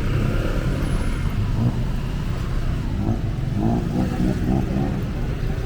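Busy city street traffic: car and motorcycle engines running and revving past as a continuous low rumble.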